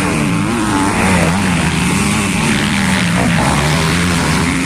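Motocross bike engines running and revving, their pitch wavering up and down continuously.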